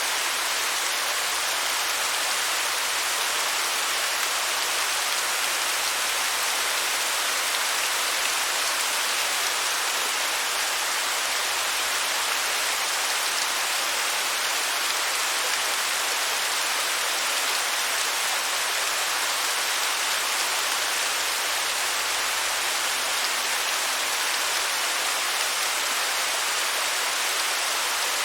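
Steady rush of a waterfall: an even hiss of falling water, mostly high, with little low rumble.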